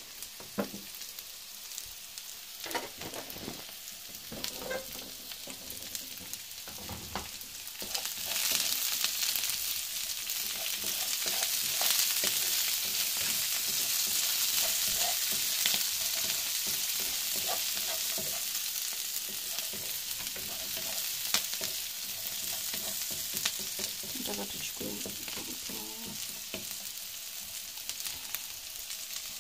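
Diced potatoes, cabbage and onion frying in oil in a wok and being stirred with a wooden spatula, the spatula clicking and scraping against the pan. Only a few light knocks at first; about eight seconds in the sizzle grows much louder and stays loud.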